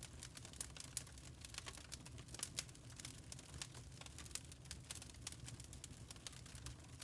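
Burning charcoal crackling: a dense, irregular run of small sharp ticks and pops, a few louder than the rest, over a low steady rumble.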